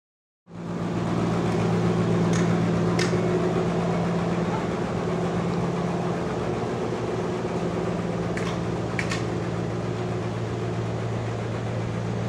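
Sawmill machinery running steadily at an idle-like hum, starting abruptly about half a second in, with a few sharp clicks in pairs.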